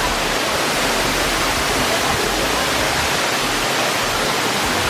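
Steady, loud rush of running water from a canyon stream.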